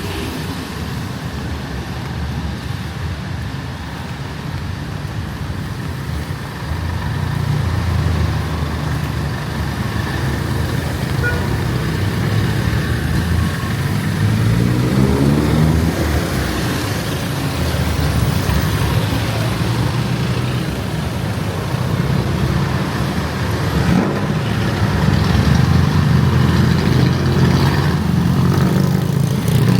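Street traffic: motor vehicle engines running close by, growing louder over the stretch, with one engine rising in pitch as it speeds up about halfway through.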